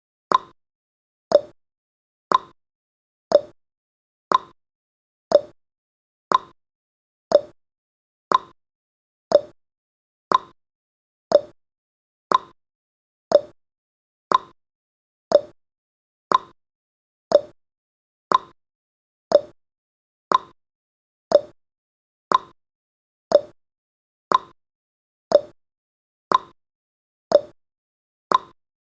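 Countdown timer's tick sound effect: a short, sharp click once every second, evenly spaced.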